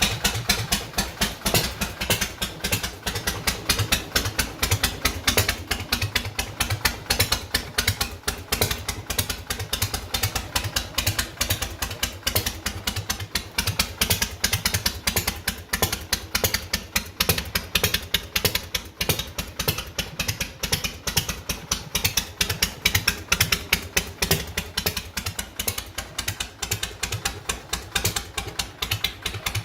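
1952 Harley-Davidson Panhead V-twin engine running steadily at idle, a fast even train of firing pulses.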